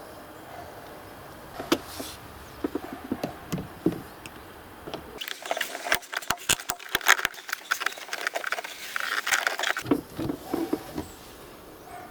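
Handwork on car interior parts and tools: scattered clicks, taps and knocks, coming thick and fast for a few seconds in the middle.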